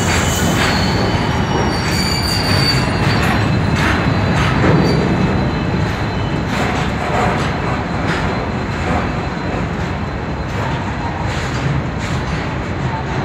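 Long goods train of covered wagons rolling past, its wheels clicking over the rail joints under a thin, high wheel squeal. The rolling noise eases slightly over the second half.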